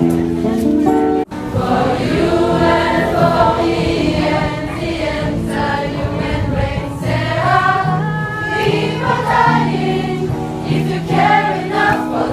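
Music with a choir of voices singing held notes. A short, abrupt break a little over a second in.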